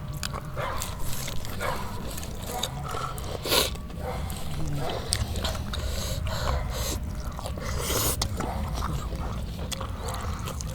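Chewing and crunching of food close to the microphone, a run of short clicky mouth sounds. A dog whines now and then in the background.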